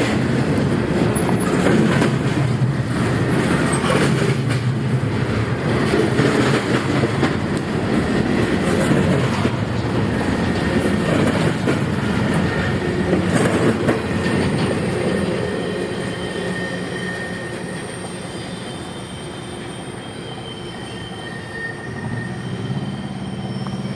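Freight train cars rolling past on a curved loop track, wheels clattering over the rail joints. From about halfway through, thin high steady wheel squeal comes in as the rumble fades.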